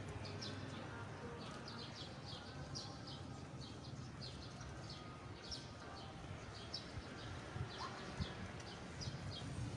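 Small birds chirping, short high notes that sweep downward, a few a second, over a low steady rumble.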